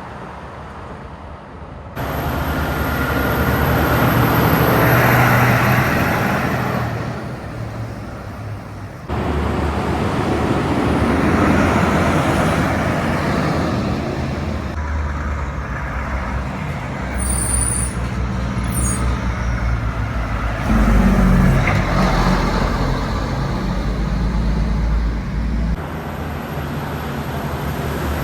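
Heavy trucks and other traffic passing on a highway: low engine drone and tyre noise, the sound jumping abruptly several times as one vehicle gives way to the next. A couple of brief high hisses come near the middle.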